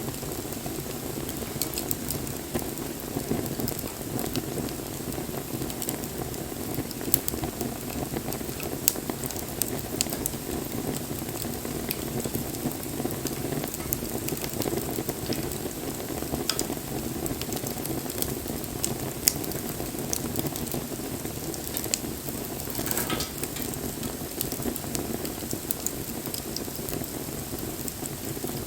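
Wood fire burning steadily, with a constant low rush of flame and scattered sharp crackles and pops from the burning wood.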